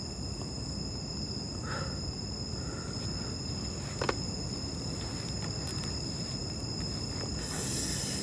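Night insects keep up a steady, high-pitched trill over a low background rumble, with a single click about four seconds in.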